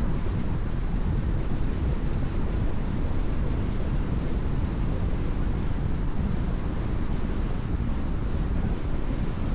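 Steady road noise of a car cruising on a rain-wet expressway: low tyre and road rumble with a hiss of tyres on wet pavement and wind noise, even throughout.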